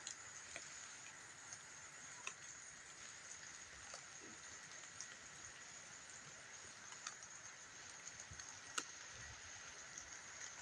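Faint outdoor nature ambience: a steady high-pitched hiss with scattered soft ticks and one sharper click about nine seconds in.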